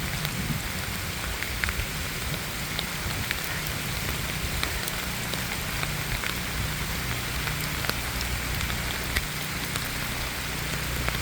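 Steady hurricane rain with wind buffeting the microphone as a low rumble, and scattered drops ticking.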